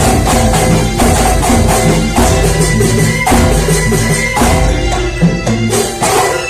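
Kuntulan music: Banyuwangi frame drums (rebana) and other percussion playing a dense, driving rhythm over sustained melodic tones.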